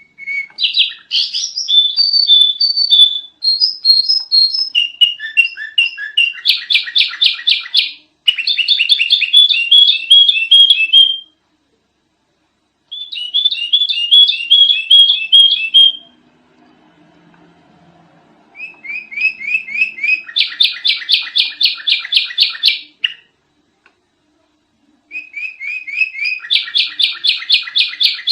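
Sooty-headed bulbul (kutilang) chattering loudly in fast runs of repeated chirps, several a second, in bouts of a few seconds with short pauses between.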